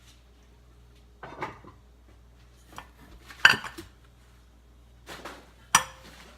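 Black & Decker nonstick pots, pans and lids being handled and knocking together: a few separate clanks and rattles, the loudest about halfway through and a sharp clank near the end.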